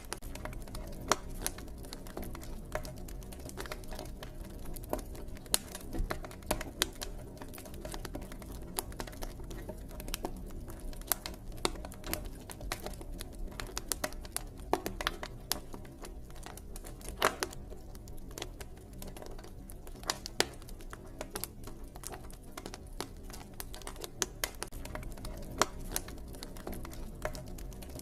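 Campfire crackling: irregular sharp pops and snaps from burning wood, some louder than others, over a steady low rumble of the fire.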